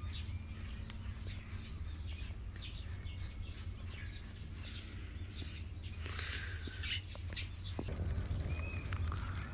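Small birds chirping now and then over a low steady hum.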